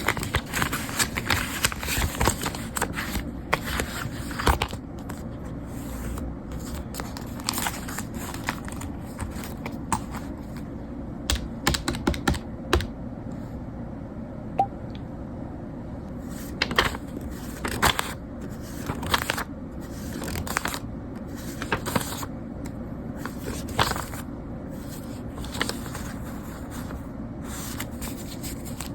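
Irregular light clicks and tapping in short clusters, over a steady low hum.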